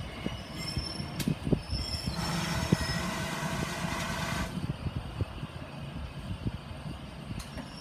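Heritage railway train running on the rails: a low rumble with scattered knocks from the wheels, a brief high wheel squeal, and a hiss lasting about two seconds in the middle.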